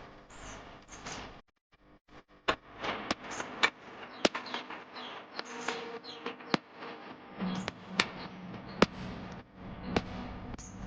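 A series of irregular sharp clicks and knocks, with a near-silent break about two seconds in.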